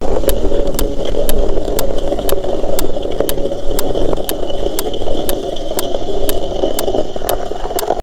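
Coffee machine brewing: a steady, loud rattling mechanical noise. Over it runs a sharp tick about twice a second.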